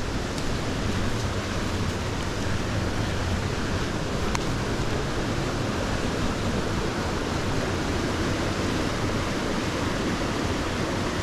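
Steady rushing of a small moorland stream's water tumbling over rocks.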